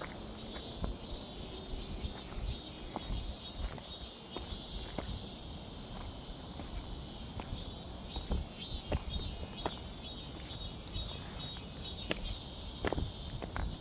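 Insects calling in a forest, a shrill pulsing chorus at about two pulses a second. It comes in two runs, stopping for a couple of seconds in the middle.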